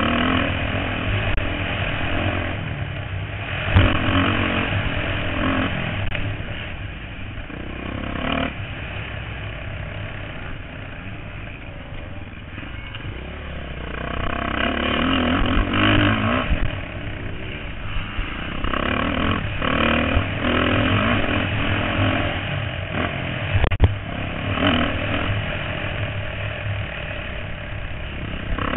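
Motocross motorcycles racing, engines revving up and dropping off as they pass, with the sound swelling and fading several times and a few sharp knocks.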